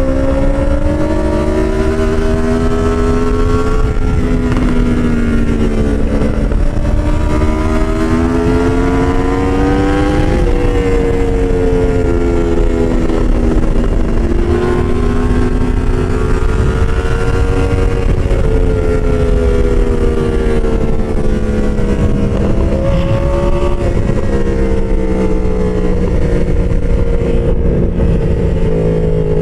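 Motorcycle engine running as the bike is ridden, its pitch climbing and falling several times as it speeds up and eases off, over a steady low noise.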